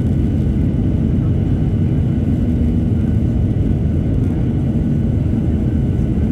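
Boeing 737-800 in flight, its CFM56 turbofan engines and airflow making a steady deep rumble with a faint, steady high whine over it.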